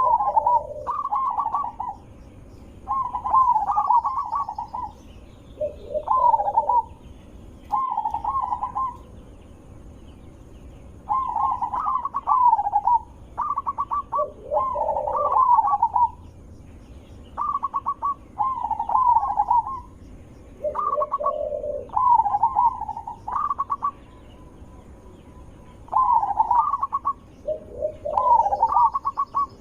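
Zebra dove (perkutut) cooing: a run of rapid, rolling coos in phrases about a second long, repeated with short pauses, with lower-pitched coos mixed in a few times.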